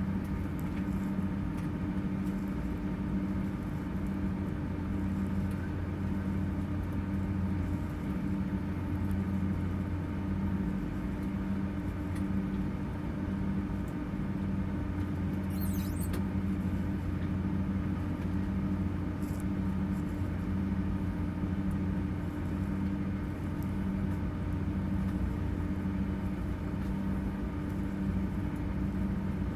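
Steady hum inside an airliner cabin on the ground, with several steady low tones and a faint regular pulsing under it. About halfway through there is one brief, high-pitched chirp that sweeps upward.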